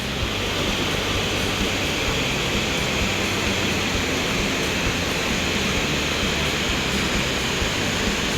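Steady rushing roar of waterfalls tumbling into a gorge.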